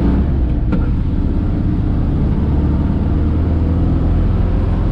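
1969 Ford F100 pickup cruising on the road on its freshly rebuilt carburetor, with a steady engine and road rumble heard from inside the cab.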